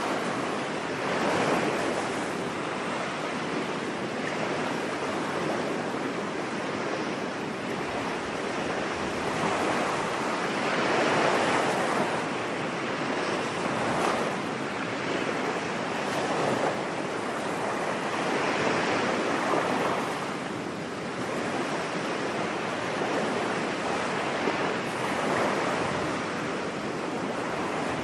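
Ocean waves breaking and washing on a beach, a steady surf hiss that swells and eases every few seconds.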